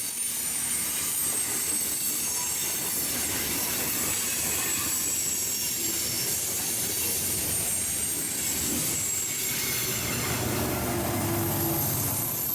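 Train cars rolling past with a steady rumble, the steel wheels giving a thin high-pitched squeal against the rails.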